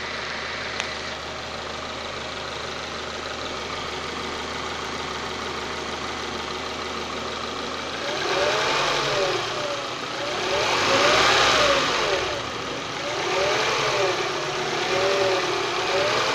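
Honda Prelude running with a grinding and whining noise. For about eight seconds it runs steadily, then it gets louder and a whine starts rising and falling over and over, about every second and a half, over a rougher grinding noise.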